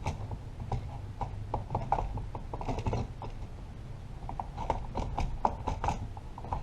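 Irregular small clicks and knocks of the Stihl 025 chainsaw's plastic pull-starter housing being fitted and fastened, over a low steady hum.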